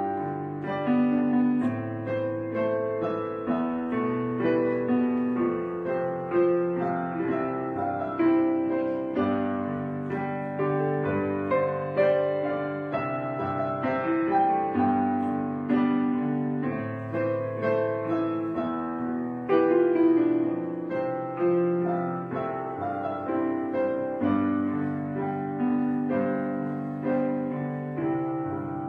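Background piano music, slow and gentle, with notes struck about once a second.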